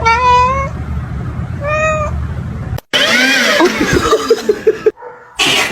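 A cat meowing: two separate meows in the first two seconds, then, after a sudden break, a busier stretch of overlapping meows.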